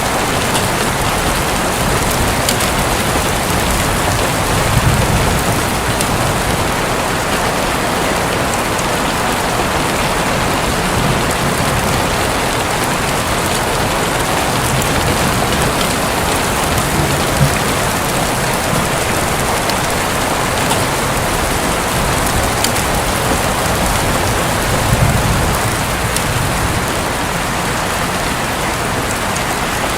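Steady heavy rain drumming on a roof, a dense even hiss with scattered individual drop ticks. Twice, about five seconds in and near the end, a brief low rumble of distant thunder swells under it.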